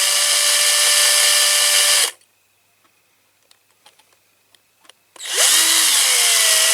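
Small electric drill running with a steady high whine while drilling out a rivet on a diecast model car, pressed only lightly. It stops about two seconds in, a few faint clicks follow, and it starts again about five seconds in, its pitch dipping briefly before it steadies.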